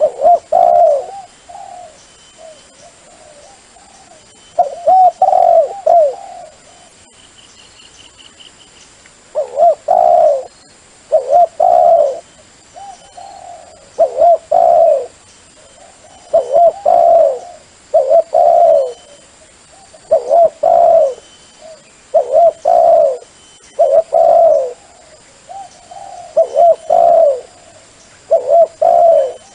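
Dove cooing: short phrases of two or three coos, repeated every second or two, a call recording played to lure wild doves.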